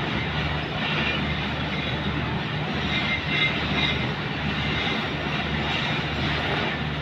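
Passenger train coaches rolling slowly into a station, with steady wheel and track noise. A constant engine drone runs underneath it.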